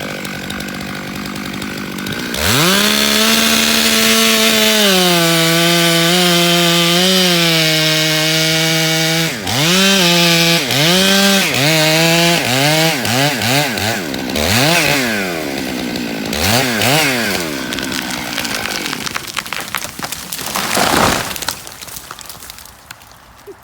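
Chainsaw idling, then opened to full throttle about two seconds in and held high, its pitch sagging a little under load as it cuts pine. The throttle is then blipped over and over, faster and faster, before the engine drops back. Near the end comes a loud crack of breaking wood.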